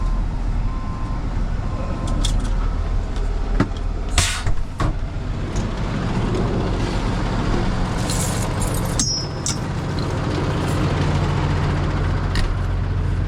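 Heavy truck's diesel engine running steadily, with a short hiss of air, like an air brake, about four seconds in and a few light clicks.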